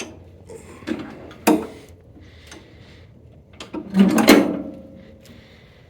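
Metal clunks and rattles from the Cub Cadet 127's deck lift lever and linkage being worked. There are two short knocks in the first second and a half, then a louder rattling clatter about four seconds in with a brief metallic ring.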